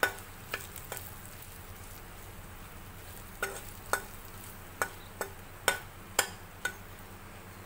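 Stuffed green chillies frying in oil in a kadhai with a low, steady sizzle, while a spatula stirs them and knocks sharply against the pan about ten times: a few knocks at the start, then a run of seven in the second half.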